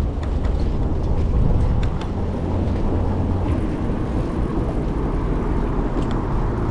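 Steady city traffic and road noise with a low rumble.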